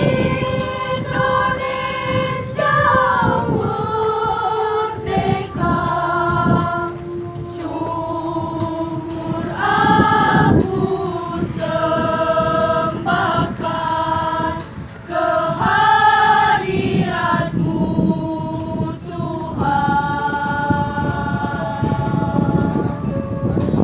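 Student choir singing in parts, holding long sustained chords phrase after phrase.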